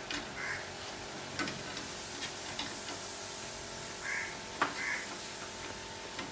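A bird calling in a few short bursts, with two sharp clicks, one about a second and a half in and one near five seconds, over a steady background hiss.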